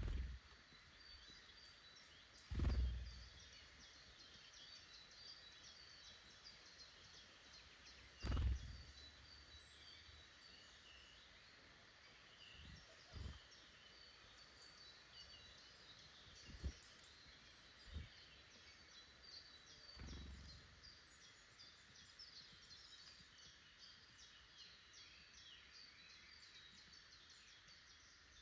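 Faint chorus of small woodland birds calling in short, high chirps, many notes a second, broken by several dull thumps, the loudest about three and eight seconds in.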